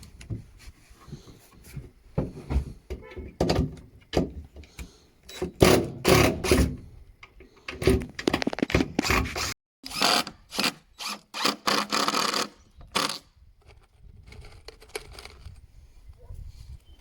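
Irregular knocks and thunks of pallet wood being worked with tools, coming in bursts of several quick strikes with short pauses between. The longest, densest run of noise is about ten to twelve seconds in, and the knocking fades to scattered light taps near the end.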